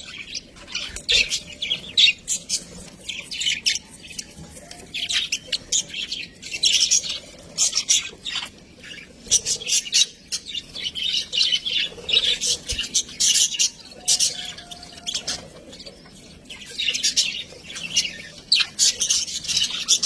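Budgerigars chattering, a rapid, continuous stream of high chirps, warbles and short squawks in bursts.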